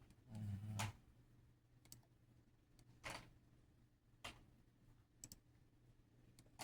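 Near silence broken by about six sharp, isolated clicks or taps, roughly one a second, with a brief low hum just before the first.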